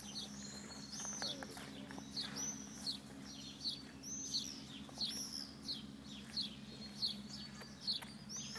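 A bird chirping over and over, short high arching chirps at about two or three a second, with a faint steady low hum underneath.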